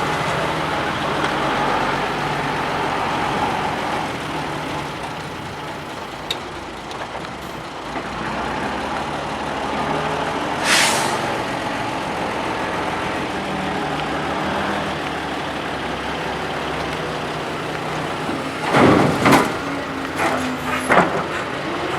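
Heavy diesel machinery running steadily as a Doosan DK225LCA hydraulic excavator loads soil into a ten-wheel dump truck. There is a short, sharp hiss of air about eleven seconds in, and a cluster of loud knocks and thuds near the end.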